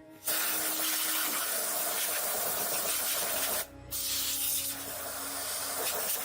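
Compressed air hissing out of a spray or blow gun in two long bursts, with a short break a little over halfway through.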